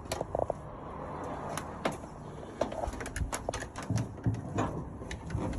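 Irregular sharp clicks and light knocks, more than a dozen in a few seconds and thickest in the middle, over a low steady rumble.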